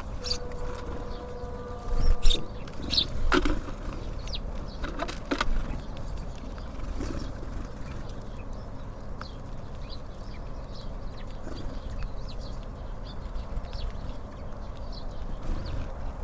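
Small birds at a feeder: short high chirps and calls, with a few sharp flutters or knocks in the first few seconds, over a steady low rumble.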